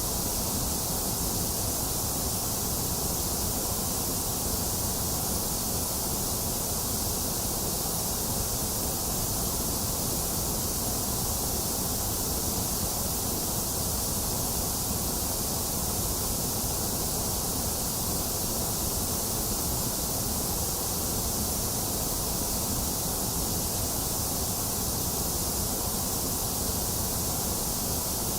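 Electronically generated white noise: a steady, unchanging hiss with no breaks or events, brightest in the high end.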